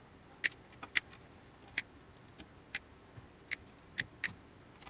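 Side cutters snipping wires off the back of a panel's switches: a string of about nine sharp, separate clicks at uneven intervals.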